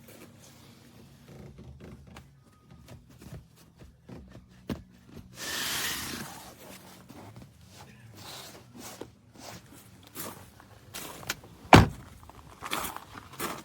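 Scattered knocks and thumps of a rubber truck bed mat being pushed and worked into place in a pickup bed, with a rubbing swish about halfway through and one loud sharp thump near the end.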